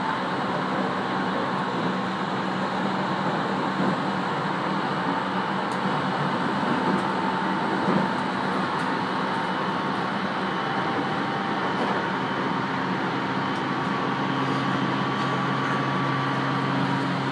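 Cabin running noise of an Aoimori Railway 701-series electric train at speed: a steady rumble of wheels on rail, with a few faint steady tones in it.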